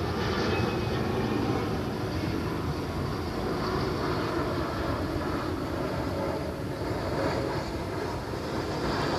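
Airbus A330-900 airliner with Rolls-Royce Trent 7000 engines, a steady rush of jet engine noise over a low rumble.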